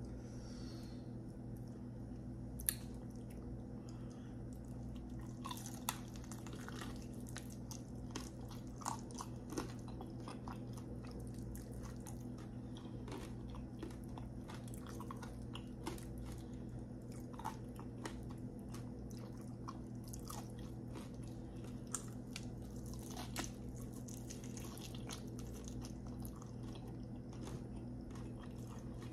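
Close-miked chewing and biting of sauce-glazed fried chicken wings: wet, sticky mouth sounds with scattered sharp crunchy clicks, the sharpest about three seconds in. A steady low hum runs underneath.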